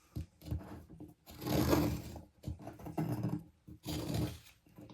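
Carving knife slicing and scraping chips off a hardwood bird blank: several separate cuts, the longest and loudest near the middle.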